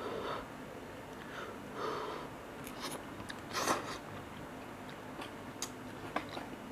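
Mouth sounds of a person eating cup noodles: soft chewing with scattered small wet clicks, and one louder brief sound a little past halfway.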